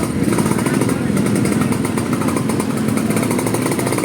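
Loud, bass-heavy playback through a large sound-system rig of 21-inch Faster subwoofers combined with 18-inch CLA cabinets, with a voice over it.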